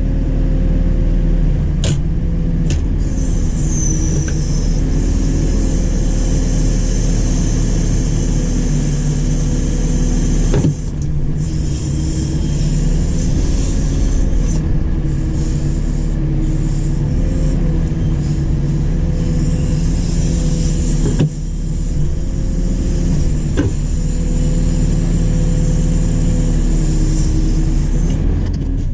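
JCB 4CX backhoe loader's four-cylinder diesel engine running steadily as the machine works, its pitch wavering slightly. A few sharp clicks or knocks are heard, and the sound drops sharply for a moment twice, about a third and two thirds of the way through.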